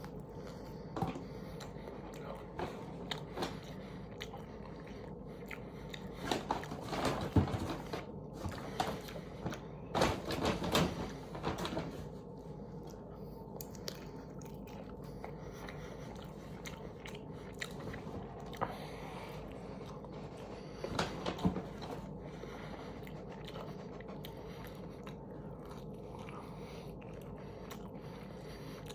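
Close-up eating sounds: biting into and chewing bone-in chicken wings, with wet smacks and crunches. The chewing comes in irregular bouts, loudest about a quarter of the way in, again around a third, and briefly past two-thirds, over a steady low hum.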